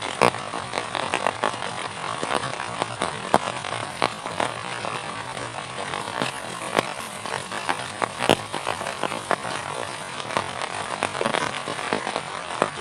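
Heavy rain falling steadily, with many irregular sharp drop impacts close to the microphone.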